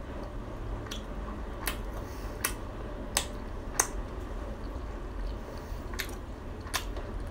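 Chewing of a fried Khmer crispy cake with the mouth closed, close to the microphone. About seven sharp crunching clicks, most of them between one and four seconds in, come over a low steady hum.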